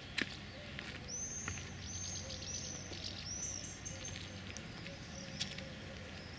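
Birds calling overhead: a run of about four quick, high-pitched arched chirps in the first half, over a steady low outdoor background with a few sharp clicks.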